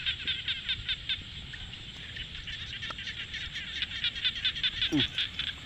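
A chorus of frogs calling in fast, even pulses, about eight a second, growing louder after about four seconds. A brief sliding call cuts through near the end.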